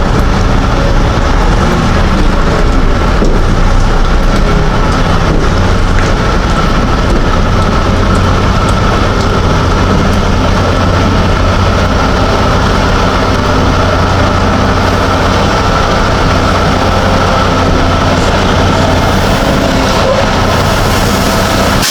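Semi-truck's diesel engine running steadily under a constant wash of rain noise, loud and unbroken.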